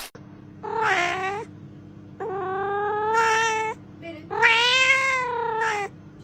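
Cat meowing: three long, drawn-out meows, each rising and falling in pitch.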